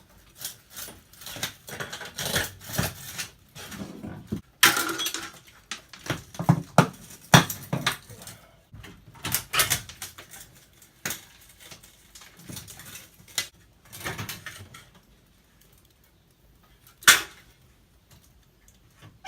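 Irregular metallic clattering, scraping and knocking of an old aluminum window frame being worked loose and handled. It goes quiet near the end, broken by one sharp knock.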